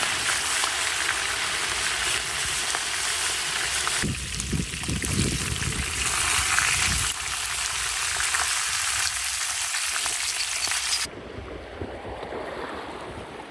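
Food frying in a pan over a campfire, a steady sizzling hiss with a few dull knocks about four to five seconds in. The sizzle cuts off suddenly about eleven seconds in, leaving a quieter, duller outdoor noise.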